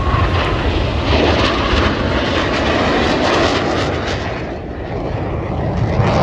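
Airplane engine noise, loud and steady with a deep rumble, easing slightly about four and a half seconds in.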